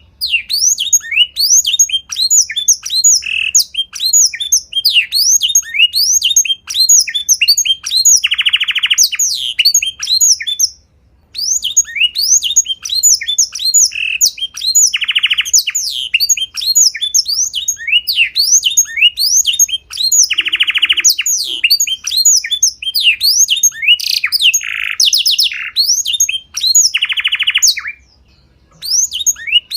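Songbird singing a fast, continuous run of sharp, steeply falling whistled notes, broken four times by a harsh buzzing rattle about a second long, with a short pause about a third of the way in and another near the end.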